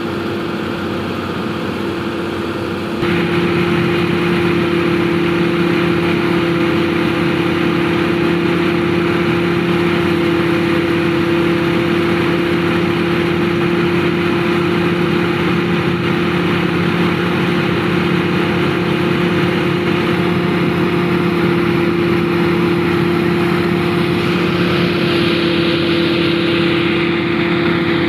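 A 480 tractor's engine running steadily under load, driving a thresher through paddy. It makes a steady drone that steps louder about three seconds in.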